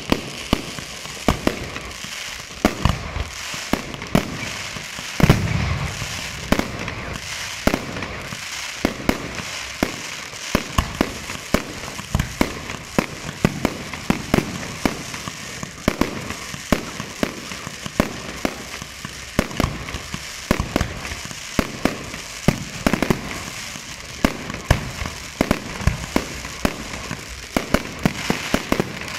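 Fireworks display: aerial shells bursting in a rapid, continuous run of bangs, several a second, over a steady crackle. The biggest boom comes about five seconds in.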